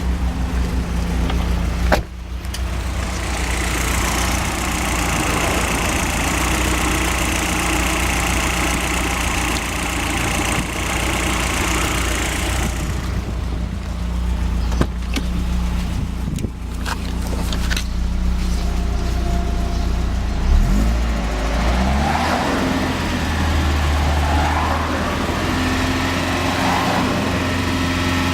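Car engine running, fitted with Brisk Silver spark plugs, with a knock that is put down to the spark plugs. There is a sharp click about two seconds in, and the engine speed changes about three quarters of the way through.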